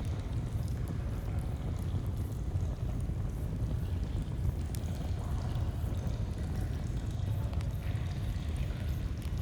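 Flowing stream running steadily, a deep low rushing, with scattered small campfire crackles over it.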